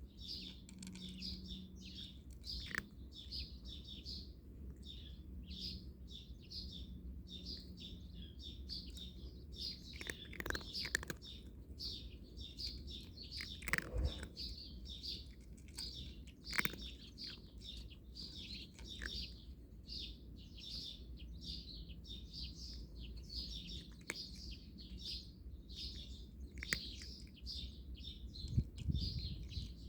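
Small birds chirping rapidly and continuously, with a few sharp clicks or knocks scattered through it.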